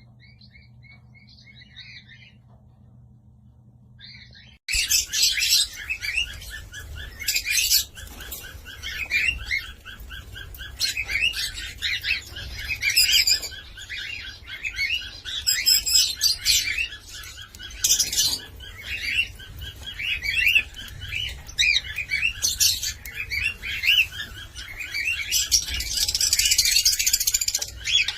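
Cockatiel chirping: faint at first, then from about five seconds in loud, rapid, continuous chirping with a rush of hiss near the end.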